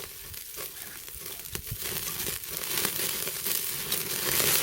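Pork neck sizzling on a grill over a charcoal brazier, with many small crackles and pops as fat drips onto the hot coals; the hiss grows louder over the last couple of seconds.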